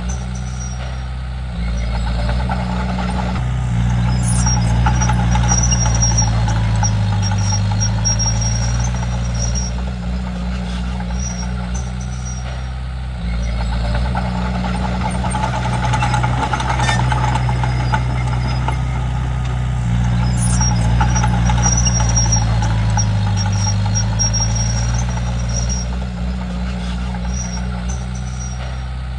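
Komatsu D31P crawler bulldozer's diesel engine working, its loudness rising and falling every several seconds as the load comes on and eases. A faint high squeak comes and goes in two stretches.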